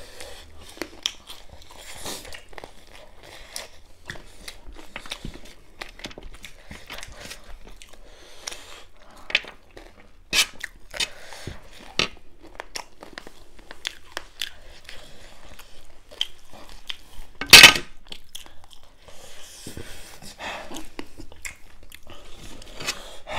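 Close-up crunching and chewing of dry chatpate, a crisp puffed-rice snack mix with chicken, with irregular crisp bites and crackles. One brief, louder burst of noise comes about two-thirds of the way through.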